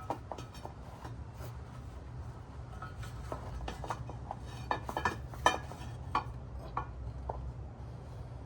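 Light metallic clinks and taps of small metal parts and hand tools being handled during motorcycle wheel work, scattered and irregular, with several in quick succession from about three to seven seconds in. A steady low hum runs underneath.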